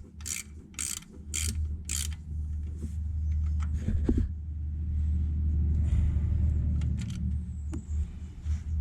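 Ratchet wrench tightening the engine oil drain plug, clicking in four quick back-strokes about half a second apart, followed by a steady low rumble.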